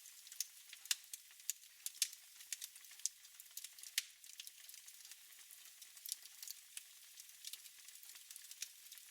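Wood fire burning in a fireplace: a soft hiss with irregular sharp crackles and pops several times a second.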